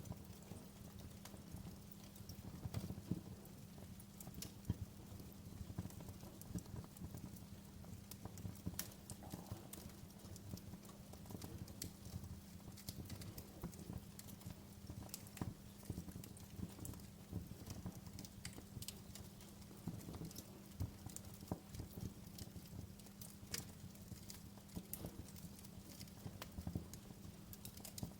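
Fireplace fire crackling: irregular snaps and pops, a few louder than the rest, over a low steady rumble.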